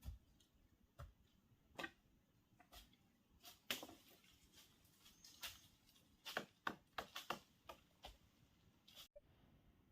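Faint, irregular light clicks and taps, with a quick run of them about six to seven seconds in.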